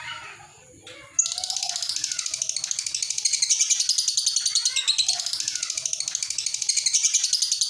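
Lovebird singing its long 'ngekek' chatter: an unbroken run of rapid, high chirps pulsing many times a second, which starts suddenly about a second in, over softer lower calls.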